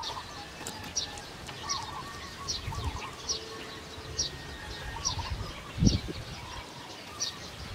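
Birds calling outdoors: a short high chirp repeated about once a second, with some lower warbling notes. A dull thump comes near six seconds.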